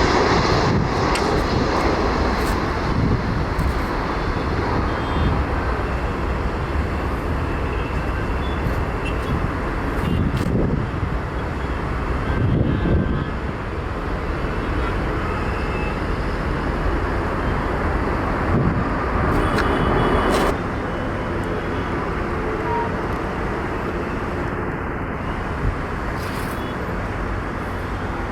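Rumble of a jet airliner's engines at the airport, easing off over the first seconds, mixed with road traffic noise. The level drops suddenly about twenty seconds in.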